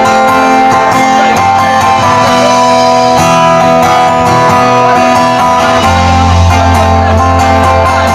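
Live band playing an instrumental passage: strummed acoustic guitar with deep bass notes coming in partway through, and no singing.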